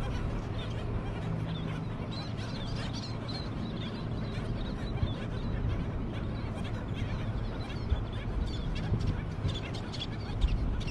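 A group of birds calling over one another, many short high calls coming thick and fast over a steady low background noise.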